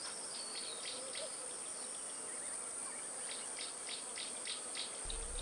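Steady high-pitched insect chirring, with a run of short chirps repeating about three times a second through the middle.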